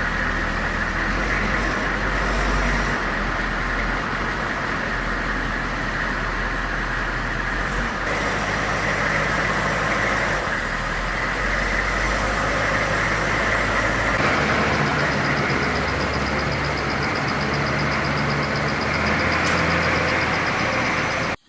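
A motor vehicle's engine running steadily under a constant noisy hiss, its low hum changing pitch about 8 and 14 seconds in, then cutting off abruptly at the very end.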